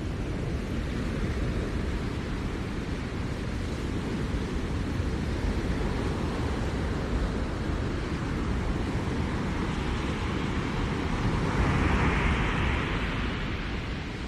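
Ocean surf on a seashore: a steady low rumble of waves, with one wave breaking and rushing in from about ten seconds in, the loudest part, easing off near the end.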